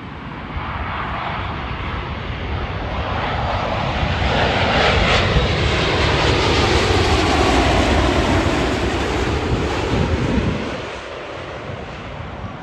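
Jet airliner passing close by, its engine noise swelling to a peak about halfway through and falling in pitch as it goes, then dying away near the end.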